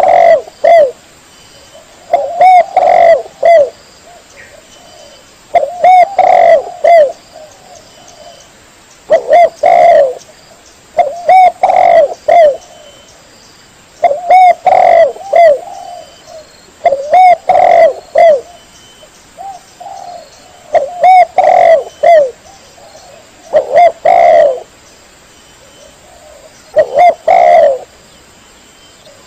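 Spotted dove (tekukur) cooing: the same loud phrase of several coos repeats about every three seconds, played as a call track for luring birds.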